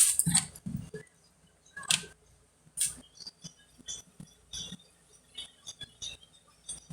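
Small hard parts and tools being handled and rummaged through: irregular light clicks, clinks and knocks, with a few louder ones in the first three seconds.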